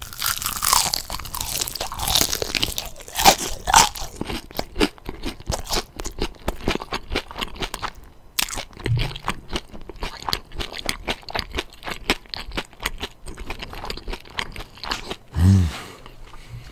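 Close-up crunching and chewing of crispy fried chicken thigh: a dense run of crisp crackles from the still-crunchy fried batter, loudest in the first few seconds.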